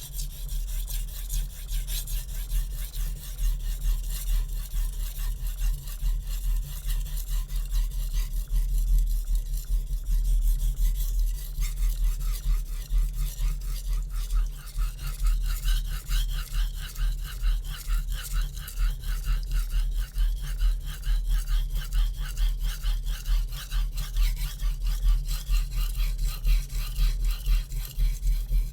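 HAP40 steel chef knife being worked on a Naniwa Super Stone waterstone in rapid, continuous push-and-pull strokes, steel scraping back and forth on the wet stone under light hand pressure. A steady low hum runs beneath.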